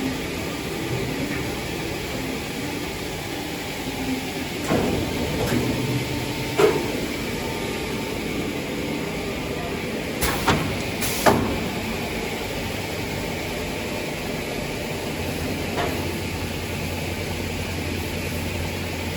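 Automatic wood-cutting machine running with a steady mechanical noise, broken by several sharp clunks; a low hum sets in about three-quarters of the way through.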